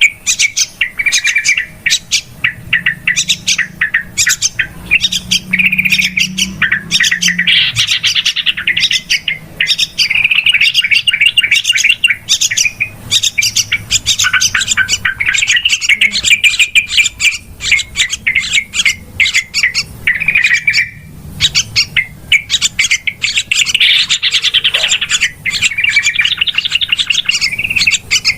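Yellow-vented bulbul (trucukan) calling in a noisy, rapid chatter of short notes and warbled phrases, played as a bird-lure recording. It runs almost without a break, with one brief pause about two-thirds of the way through.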